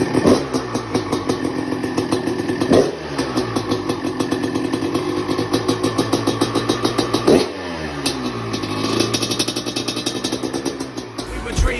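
1994 Honda CR250's single-cylinder two-stroke engine running, its throttle blipped about three times, each rev rising and falling back to idle.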